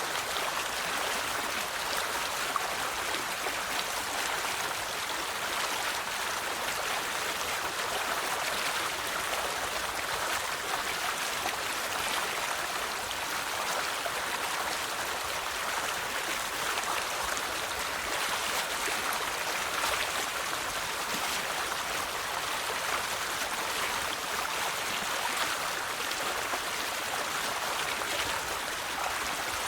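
River water flowing over stones, a steady even rush and babble with no change over the whole stretch.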